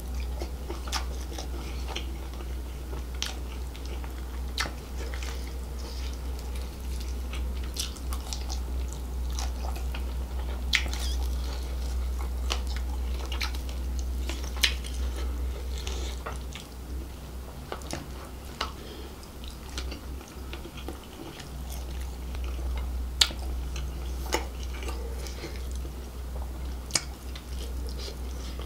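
Close-miked chewing and biting of grilled seafood in a spicy gravy, with many short wet clicks and crunches, over a steady low hum.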